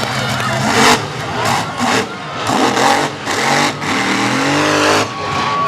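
Monster truck engine revving up and down hard, with several sudden loud bursts along the way.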